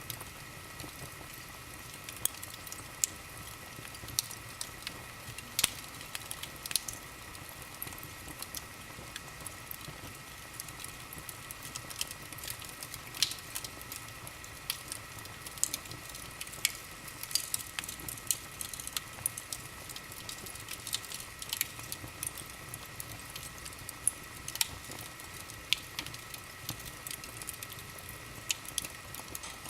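Wood fire burning in a fireplace, crackling with irregular sharp pops and snaps.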